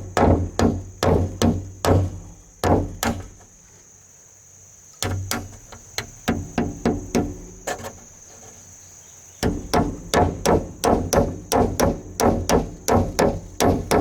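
Hammer blows in quick series, about three strikes a second, stopping twice for a second or two before starting again, over a steady high-pitched insect drone.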